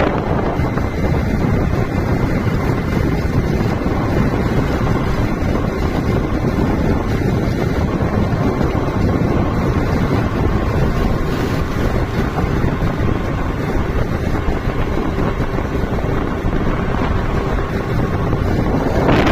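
Wind buffeting the microphone over a steady low rumble, with a faint constant hum.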